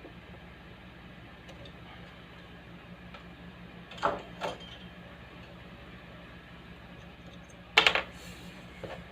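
Speaker giving off a steady low electrical hum, with a couple of knocks about four seconds in and a louder clatter near the end.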